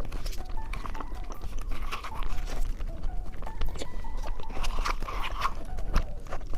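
Close-miked eating: biting and chewing with irregular crunchy clicks.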